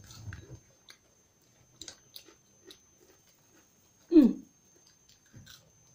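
People chewing chicken nuggets: faint, scattered soft crunches and mouth clicks. About four seconds in, a brief voice sound falling in pitch.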